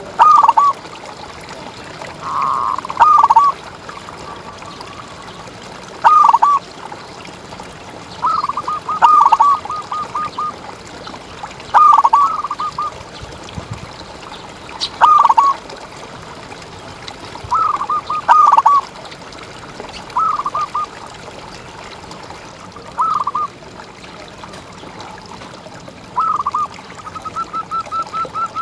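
Zebra dove (perkutut) cooing: short phrases of quick, rolling notes, repeated about every three seconds, with a longer run of rapid, evenly spaced notes near the end.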